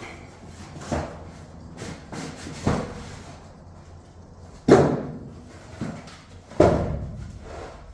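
A few separate thumps and clunks, the two loudest about halfway through and near the end, each dying away quickly: things being handled and set down in the cargo box of a box truck.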